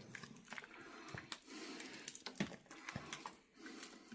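Quiet, scattered light clicks and soft wet sounds as dry noodles are dropped into a pot of chicken soup.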